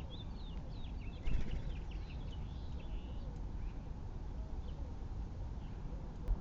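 Small birds chirping: a quick run of short, high chirps for the first few seconds, then only scattered calls, over a steady low rumble. There is one brief knock about a second in.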